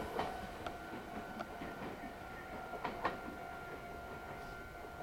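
Meitetsu 3700 series electric train pulling away, its wheels clicking irregularly over the rail joints and points. A faint steady high tone runs underneath.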